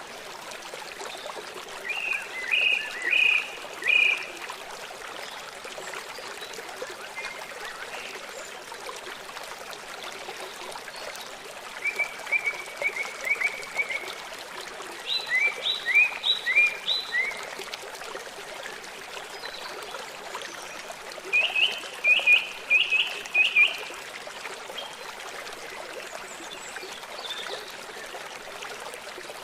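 River water flowing steadily, with a songbird singing short phrases of quick, repeated high notes, four times over: about two seconds in, then twice between about twelve and seventeen seconds, and again around twenty-two seconds.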